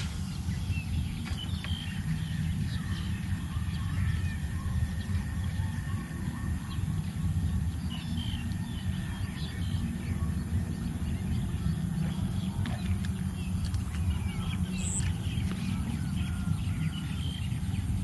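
Open marsh ambience: scattered short bird chirps over a steady low rumble, with a constant high-pitched ringing above.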